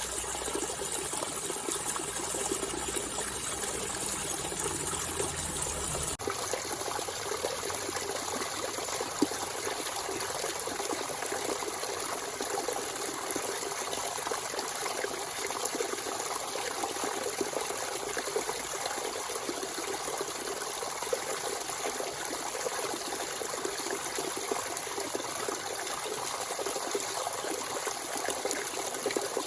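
Natural spring water running and trickling steadily. A low rumble sits under it for the first six seconds and stops abruptly.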